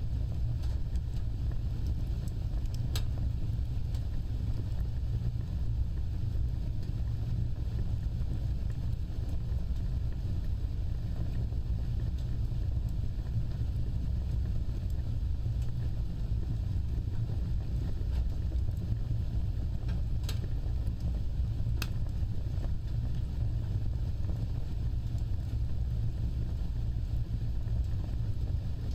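Fire burning with a steady low roar of flames, broken by a few sharp crackles: one about three seconds in and two close together later on.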